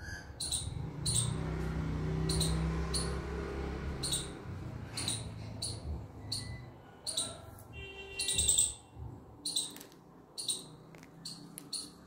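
Small birds chirping in short, high, repeated chirps, about one or two a second, with a longer call about eight seconds in. A low rumble runs under the first few seconds.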